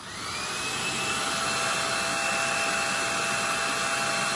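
Conair Infiniti Pro hair dryer running: the motor spins up as it starts, its whine rising for a moment, then it settles into a steady rush of air with a high whine.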